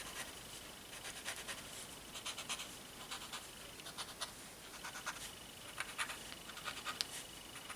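Paper tortillon rubbed over paper in short strokes, blending white charcoal: a faint, irregular scratching.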